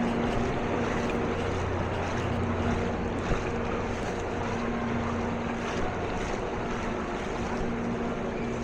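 A motor running steadily with a constant hum, under a continuous rush of water and wind noise.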